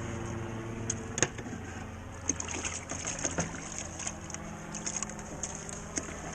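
Drywall tools and a metal mud pan being handled and rinsed in water: scattered light clinks and scrapes with some sloshing, over a steady low hum.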